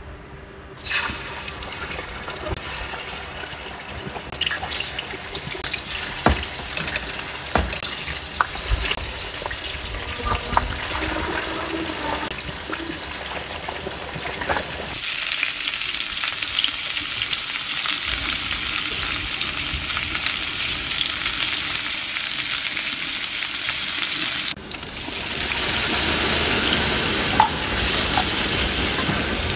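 Hot oil crackling quietly in a stainless steel frying pan, then about halfway through, loud steady sizzling as raw chicken pieces fry in the oil. Near the end, after a short break, the sizzling goes on as a ground spice paste is stir-fried with a wooden spatula.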